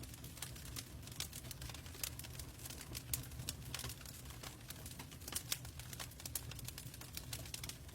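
Log fire crackling, with irregular sharp pops and snaps over a steady low rumble of burning.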